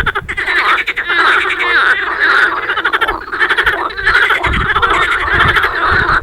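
A loud chorus of many frogs calling at once in spring, their croaking calls overlapping into a dense, continuous din.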